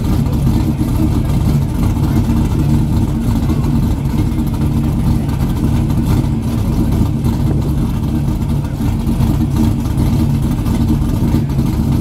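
A vintage car's engine is held at steady high revs during a burnout, with the car stationary on the pad as the rear tires spin.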